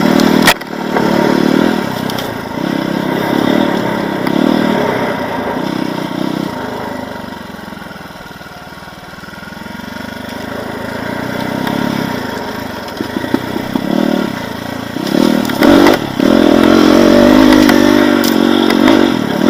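Off-road motorcycle engine revving on and off as it is ridden, with a sharp knock about half a second in. The revs ease down to a low point about halfway through, climb again, and rise in sharp throttle bursts near the end.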